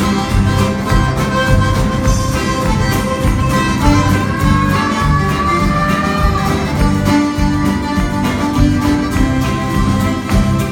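Live Cajun band playing an instrumental passage: a fiddle carries the melody, with one sliding phrase partway through, over strummed guitar and a steady bass beat.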